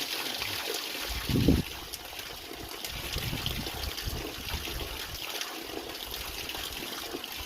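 Waterfall water running and trickling steadily, with a short low thump about a second and a half in.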